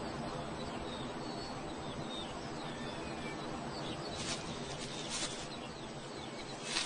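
Small birds chirping over a steady outdoor hiss, with a few short, high, rasping calls in the second half.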